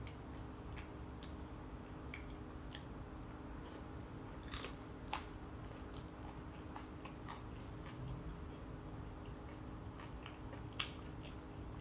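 Close-up chewing of fried shrimp and fries, with scattered short sharp crunches and mouth clicks, a few louder ones about four and a half, five and eleven seconds in.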